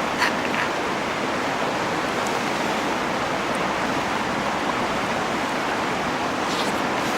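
Steady rush of a flowing stream, with a couple of faint clicks about a quarter second in and near the end.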